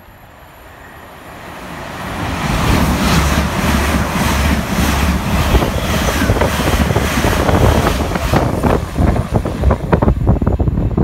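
LNER Azuma high-speed train passing through the station at speed: a rush of noise that builds over the first couple of seconds to a loud roar, with a rapid, regular clatter of wheels over the rail joints near the end.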